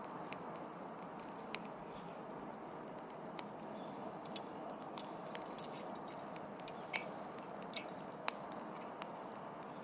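Wood bonfire crackling, with irregular sharp pops and snaps over a steady low hiss of burning; the loudest pops come about seven and eight seconds in.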